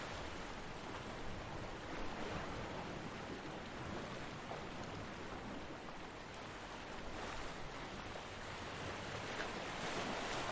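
Ocean waves breaking on a beach: a steady wash of surf that swells and eases, building toward the end.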